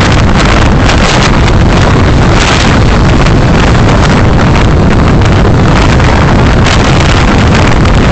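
Steady, loud road and wind noise from a moving car, picked up by its dashcam microphone.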